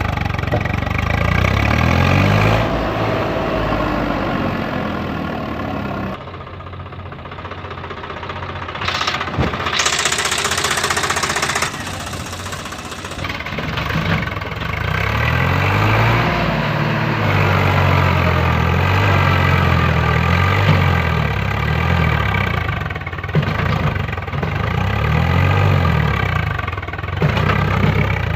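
Tractor engine running, its pitch rising and falling as it revs and labours. About ten seconds in, a rushing noise lasts for a couple of seconds.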